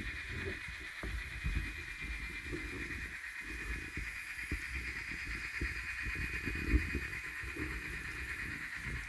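N-gauge model trains running on the layout track: a low rumble with irregular small clicks over a steady high whine.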